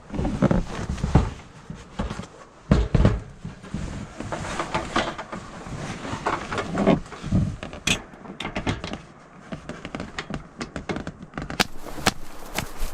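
A run of irregular knocks, thumps and rustling, with no steady tone.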